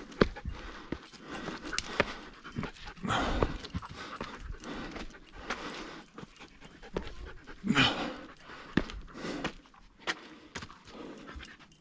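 A dog panting heavily after a steep climb, with a few sharp clicks in between.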